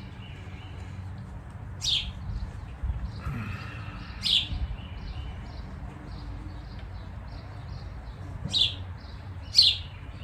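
A bird calling four times with short, sharp chirps that sweep downward in pitch, two of them close together near the end, over a steady low background rumble.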